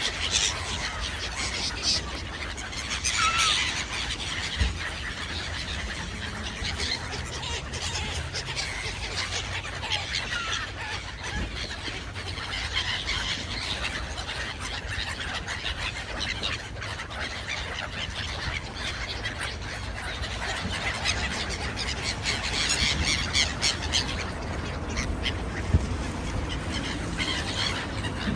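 A mixed flock of birds calling, with many short overlapping calls that are busiest a few seconds in and again near the end, over a steady low rumble.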